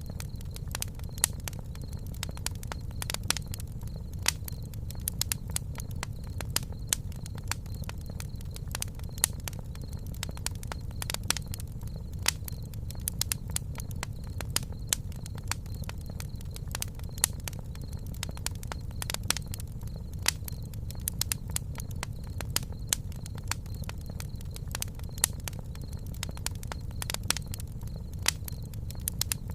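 Campfire crackling: frequent sharp pops and snaps, several a second, over a steady low rumble of the burning fire.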